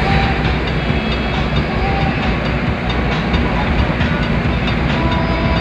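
Truck on the move: a steady, loud engine and road rumble, with a few brief faint high tones.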